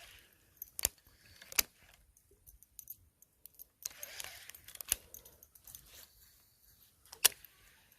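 Fishing tackle being handled: four sharp clicks, with smaller ticks and faint rustling between them; the last click, near the end, is the loudest.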